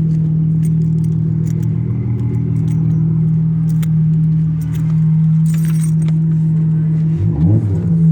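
Dodge Charger's V6 with an aftermarket exhaust idling steadily on a cold start, its pitch wavering briefly up and down near the end.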